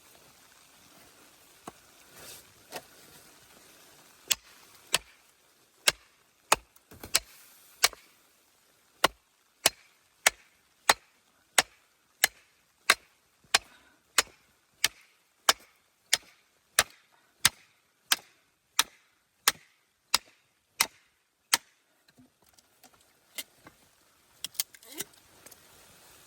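Steady chopping, sharp strikes at about three every two seconds, starting about four seconds in and stopping near the end, followed by a few lighter knocks.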